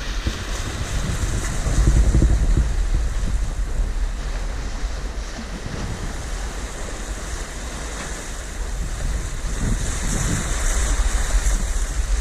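Wind buffeting the microphone over the wash of the sea around a sailboat under full sail, a steady rush with low rumbling gusts that swell about two seconds in and again near the end.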